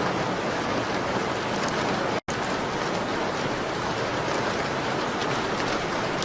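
Steady rain on a window: a dense, even hiss with faint scattered ticks of drops. The sound cuts out completely for an instant about two seconds in.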